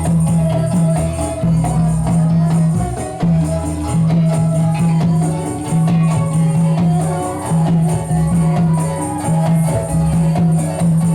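Ndolalak dance accompaniment music: percussion with jingles over a low drum beat repeating about once a second, with a melody running above it.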